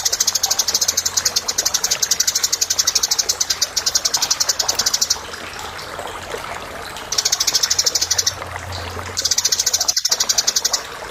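Eurasian tree sparrow chirping in rapid, even runs of high chirps. A long run of about five seconds is followed by two shorter runs after brief pauses, over a steady background hiss.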